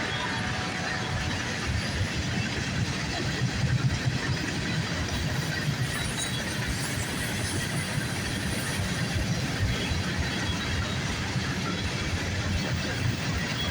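Freight train rolling past, its cars' wheels running on the rails in a steady noise with small irregular peaks.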